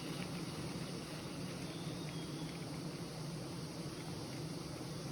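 A swarm of wild honeybees buzzing steadily in an even, low drone, the colony agitated and defending its hive.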